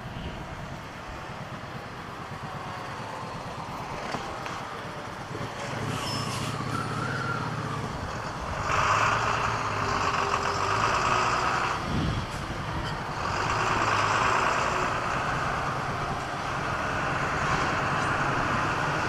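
Motorcycle riding along a road: a steady low engine hum under wind noise on the microphone. Louder rushing swells of road traffic come in about eight seconds in, and again around thirteen seconds.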